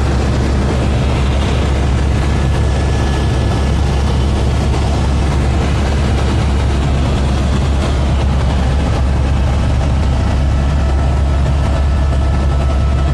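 Helicopter in flight: a steady, loud drone of rotor and engine, strongest in the low end, holding even throughout.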